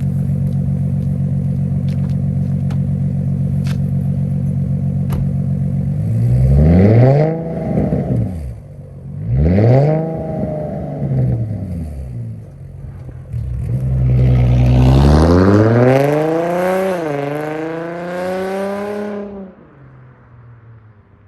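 Infiniti M35h's V6 engine, muffler and resonator deleted, idling steadily and then revved: two short blips, then one longer rev that climbs, dips briefly and climbs again before falling back to a quieter idle near the end.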